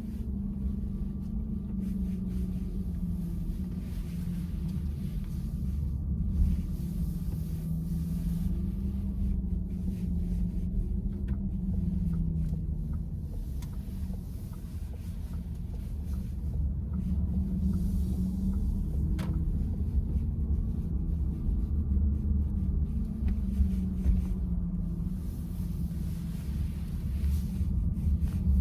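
Steady road and tyre rumble heard inside the cabin of a VW ID.4 electric SUV on the move, with a low wavering hum over it. A single faint tick comes about a third of the way in, and another a little past two thirds.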